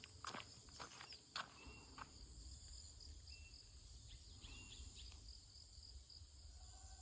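Faint steady chorus of forest insects, high and continuous, with a few short, high single-note bird chirps. A few footsteps on the path in the first second and a half.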